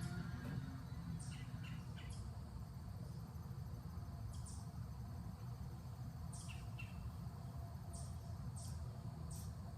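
Scattered short, high bird chirps, about a dozen, over a steady low outdoor rumble.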